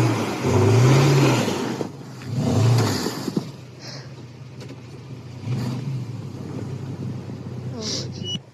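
A truck engine revving up and falling back several times, loudest in the first three seconds, then running lower with one more brief rev near the middle.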